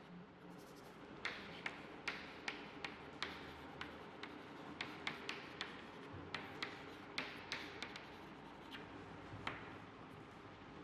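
Faint, irregular taps and clicks of a pen writing by hand, about two a second.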